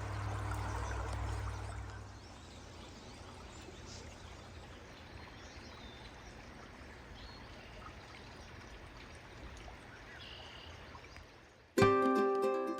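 Water from a natural spring flowing out of the ground with a steady pouring, trickling sound, louder for the first two seconds. Ukulele music starts suddenly near the end.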